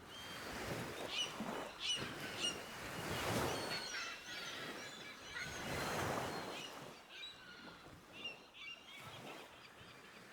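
Small birds chirping, many short high calls, over a soft rushing background that swells twice and then fades away.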